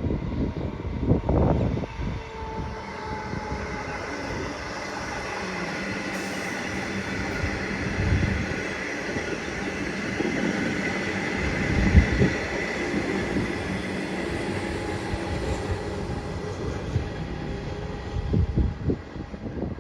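A train passing close by: a sustained rush of wheels on rail with steady whining tones. It builds over the first few seconds, peaks with a sharp knock about twelve seconds in and fades near the end.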